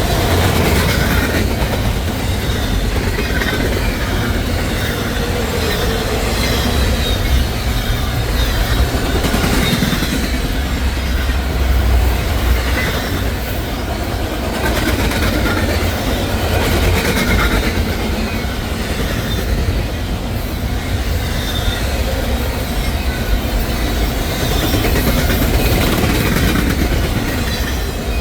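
Intermodal freight train cars rolling past at speed: a steady, loud rumble of steel wheels on the rails with clickety-clack and some wheel squeal.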